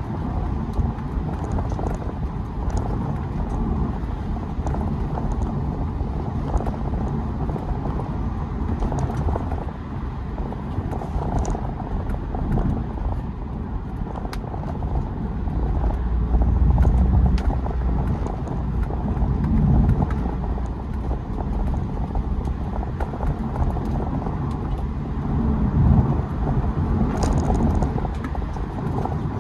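BMW E92 320d four-cylinder turbodiesel pulling on the move, its engine and open K&N cold-air intake heard as a steady low rumble that swells louder three times under acceleration, about halfway through and near the end.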